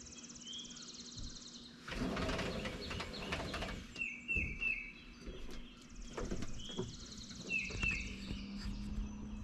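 Songbirds calling at dawn: short chirps repeated in quick runs and a long, high, rapid trill. A rustling noise comes in about two seconds in and lasts about two seconds, over a faint steady low hum.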